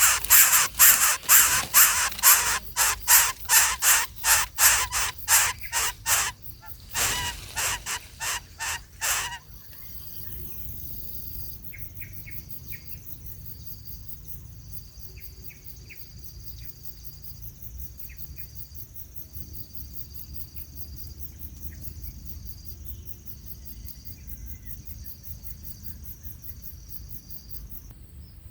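Harsh, crow-like bird calls repeated rapidly, two or three a second, which break off about nine seconds in. After that a faint high trill pulses steadily, with a few faint chirps.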